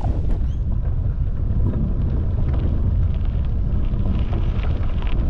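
Wind buffeting the microphone of a bike-mounted camera while cycling, a steady low rumble.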